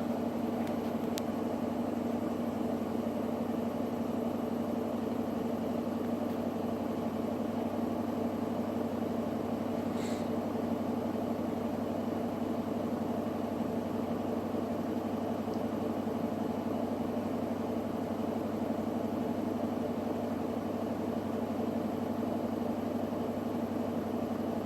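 Electrolux WD41A84160 washing machine running with a steady motor hum at a constant pitch during its rinse-and-spin programme, with one faint tick about ten seconds in.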